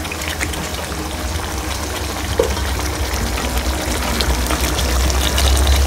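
Chicken masala gravy simmering in a pan after water has been added to cook it down, with a steady crackle of small bubbles popping. A low hum runs underneath and grows a little louder near the end.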